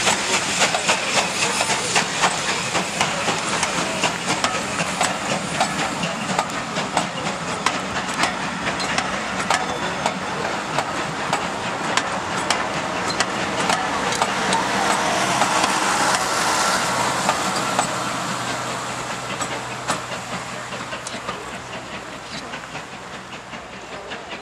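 Steam-hauled train of passenger coaches rolling past and pulling away, the wheels clicking rapidly over rail joints over a steady hiss of steam. It swells briefly in the middle, then fades over the last several seconds as the train draws off.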